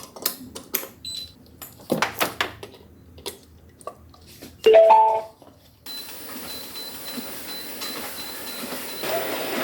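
A short electronic chime of about three rising notes, the loudest sound here, after a few seconds of scattered small clicks and taps. A steady background hiss with a faint high whine follows.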